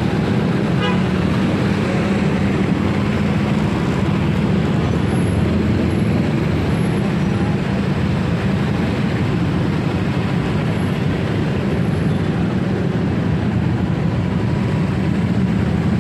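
Steady road and wind noise from riding a motorcycle through city traffic, with the low rumble of engines.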